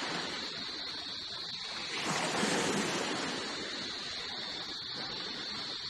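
Sea waves washing, swelling once about two seconds in, over a steady high hiss.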